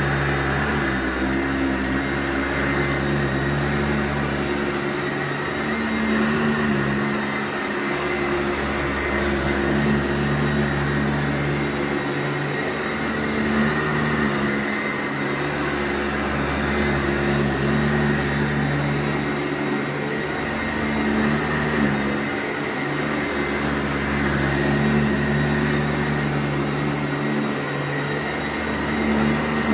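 Sanitaire SC684G upright vacuum cleaner running steadily over carpet, its motor hum constant while the low rumble swells and drops back every few seconds with the push-and-pull strokes.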